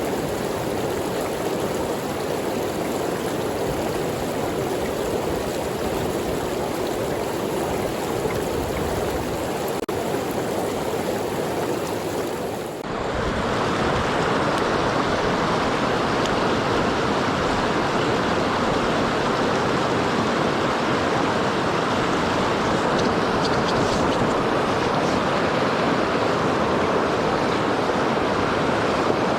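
Mountain stream water rushing steadily over rocks. About 13 seconds in it changes abruptly to a louder, brighter rush.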